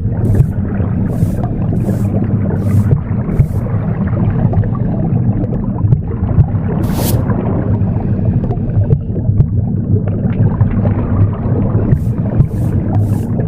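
A recorded womb sound, a steady low rumbling whoosh, mixed with a broom sweeping. The broom makes short bristly strokes about two a second in the first few seconds, one stroke in the middle, and strokes again near the end.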